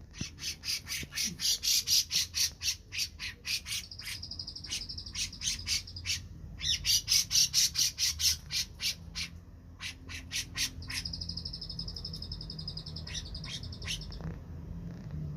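Cucak jenggot bulbul (Alophoixus bres) in full song: long runs of sharp, quickly repeated high notes, several a second, broken by stretches of a continuous high trill. The runs are loudest near the start and again in the middle.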